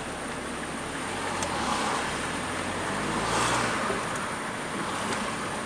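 Road traffic noise from passing cars, swelling to its loudest about three and a half seconds in.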